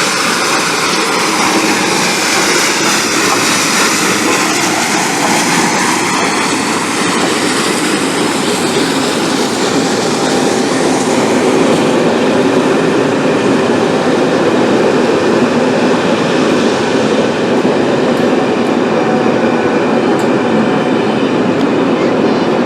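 A steam-hauled train rolling past close by: a loud, steady rush of wheels on the rails that lasts throughout and swells slightly about halfway through.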